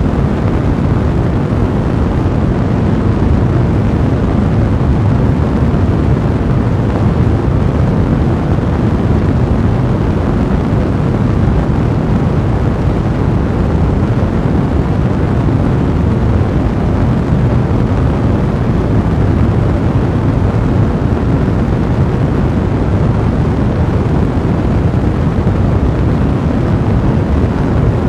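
Fire blaze burning as a steady, dense low rumble, with no separate pops standing out.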